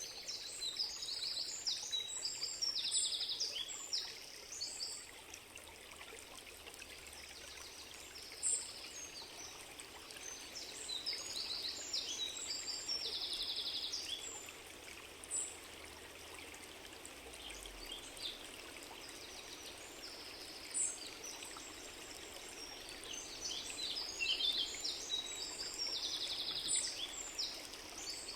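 Stream of water running steadily, with small birds singing over it in recurring bursts of high, quick chirps and trills.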